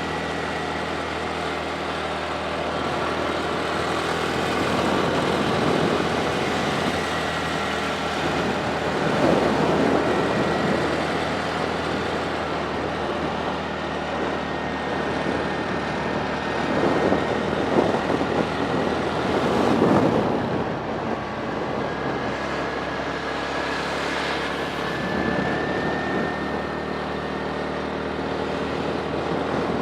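Motorcycle engine running steadily while riding, with wind noise rushing over the microphone; the noise swells louder a few times, around ten and twenty seconds in.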